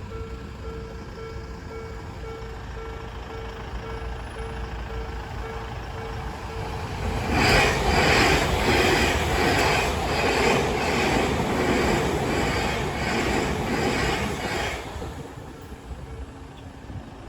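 Level crossing warning bell ringing about twice a second. About seven seconds in, an Odakyu 1000- and 3000-series electric train rushes over the crossing with a loud rumble and rhythmic wheel clatter for about eight seconds, then fades away.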